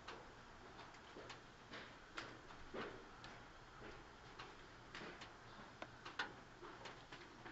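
Faint ambience of a JR 211 series electric train standing at a platform with its doors open: a low steady hum with scattered irregular clicks and ticks, the sharpest about six seconds in.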